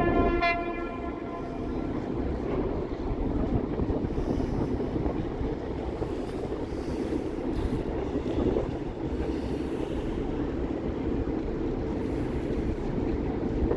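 Passenger train horn cutting off about half a second in, followed by the steady rumble and rattle of the train running.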